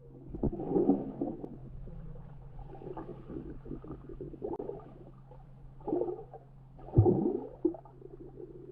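Underwater sound of a swimming pool picked up on a submerged action camera: muffled swells and gurgles of water moving around a swimmer, over a steady low hum. The loudest swell comes about seven seconds in.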